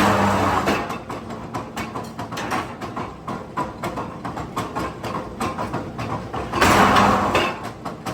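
Factory machinery clattering with a rapid, irregular run of metal knocks and clicks. Two louder noisy surges with a low hum come at the very start and again about seven seconds in.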